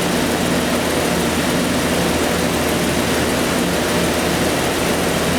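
Jeep 4.6 stroker inline-six engine running steadily on an engine dyno, loud and even with no change in speed.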